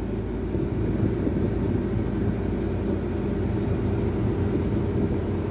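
Scania XT 540 truck's diesel engine running steadily at cruising speed while hauling loaded sugarcane trailers, a constant low hum.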